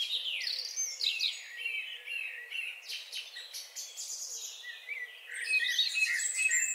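Small birds chirping and twittering in quick, overlapping high calls, busiest at the start and again near the end.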